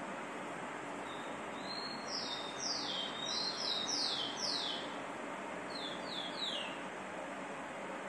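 A bird calling in a run of quick, downward-slurred whistled notes, about seven in a row, then three more a little later, over a steady background hiss.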